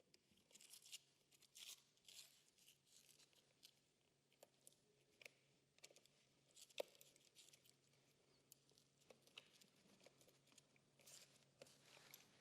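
Faint scratchy clicks and scrapes of an Allen key turning the bolts of a wheelchair's brake lever mount, tightening away its side-to-side wobble, with one sharper click about seven seconds in.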